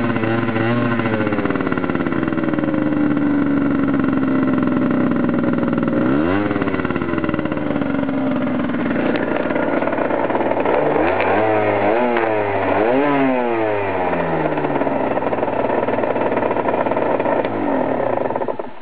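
Warmed-up Yamaha DT50X 50cc two-stroke engine on its original exhaust, being revved: the pitch sinks slowly at first, shoots up in a quick rev about six seconds in, then several fast blips of the throttle follow in the middle before it settles back to a steady buzz.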